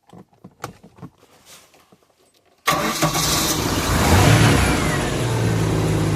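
A few faint clicks, then about two-thirds of the way in the warm 1994 MerCruiser 4.3LX V6 inboard engine starts abruptly, revs up briefly and settles into a steady idle. It is being restarted after stalling, a stall the owner blames on a problem he has not yet found.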